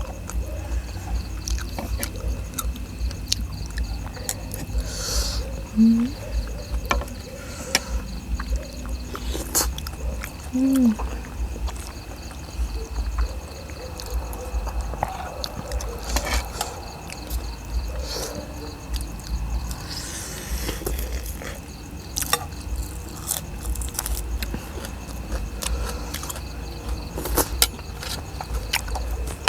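Eating sounds: scattered clicks and crunches of chewing and utensils over a steady low rumble and a faint insect trill, with two short low pitched sounds about six and eleven seconds in.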